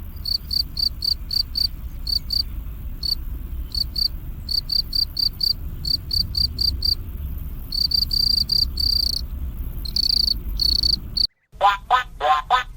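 Cricket chirping: short high-pitched chirps repeated about four times a second, a few stretched longer, over a low steady rumble. Near the end the sound cuts out briefly and a different animal's call starts, repeated quickly.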